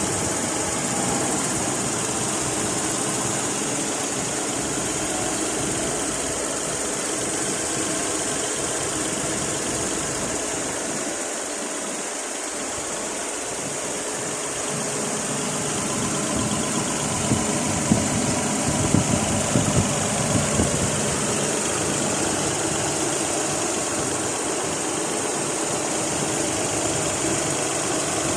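A Nissan Skyline R33's RB20E 2.0-litre straight-six idling steadily after a cold start. A handful of short, sharp knocks sound over it a little past the middle.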